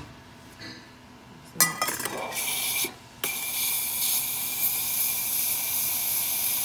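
A short clatter about one and a half seconds in, then a Breville 980 espresso machine's steam wand hissing steadily, with a brief break just before three seconds in. The steady hiss shows the steam working properly after the wand's milk-residue clog was cleaned out.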